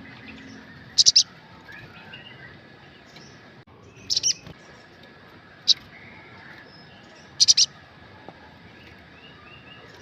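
Olive-backed sunbird (sogok ontong) giving sharp, high chirps in four short bursts of a few quick notes each, over a steady faint hiss.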